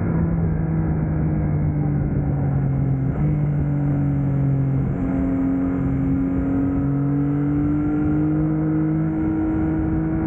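Yamaha MT-09's inline-three engine running through a Yoshimura R11 exhaust while riding. The engine note dips about three seconds in, then climbs slowly as the bike gently picks up speed.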